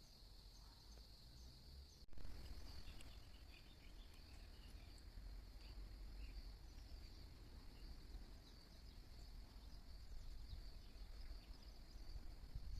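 Faint, steady high-pitched trilling of insects such as crickets, with a few scattered small chirps and a low rumble underneath. The sound breaks off abruptly about two seconds in and resumes at once.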